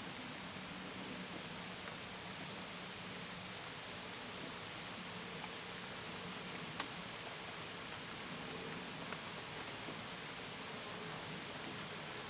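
Steady rain falling, with scattered sharper drip ticks, the strongest about seven seconds in. Crickets chirp in a faint high trill that comes and goes in short repeated stretches.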